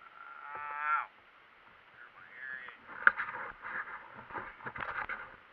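The single-cylinder four-stroke engine of a 2004 Yamaha YZ450F dirt bike revs up quickly and then drops off suddenly. A shorter rev follows, and the rest is uneven running with knocks and rattles.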